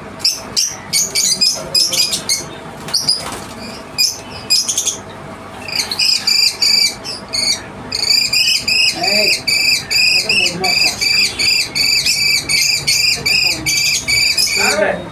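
Small pet parrots (lovebirds) calling with shrill, high chirps. Scattered sharp calls in the first half give way, about halfway through, to a steady run of repeated chirps, about three a second.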